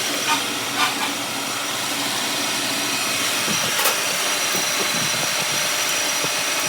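Machine running steadily: an even hissing noise with a faint high whine, and a few light knocks about a second in.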